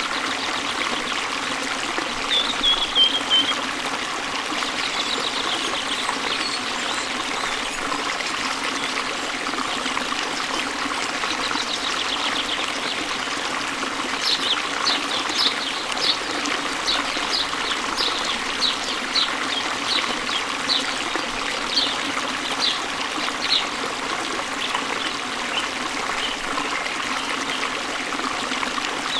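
A stream trickling and babbling steadily over rocks, with birds singing above it: a brief chirp and a quick trill early, then from about halfway one bird repeating a short high note about twice a second for some ten seconds.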